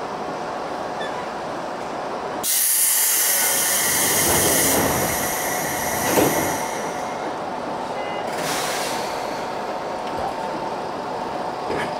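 Seibu 3000 series electric train in the cab, with a loud hiss of compressed air, typical of air brakes, starting suddenly about two and a half seconds in and lasting about two seconds, a single knock about six seconds in, and a second, shorter hiss near nine seconds.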